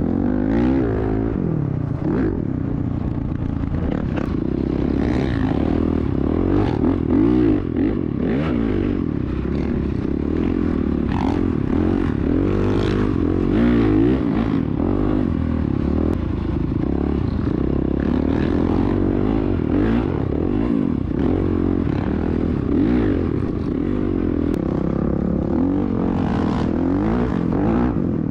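Dirt bike engine revving hard and dropping back over and over as it is ridden, its pitch climbing and falling every second or two.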